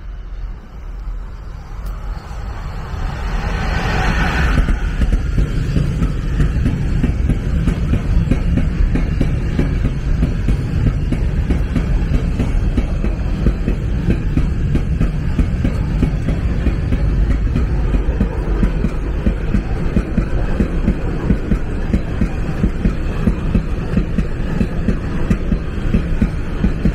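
A Traxx E 186 electric locomotive rushes past about four seconds in, then a long container freight train rolls by: a steady low rumble of wagon wheels on the rails with a regular rhythmic clacking of the bogies.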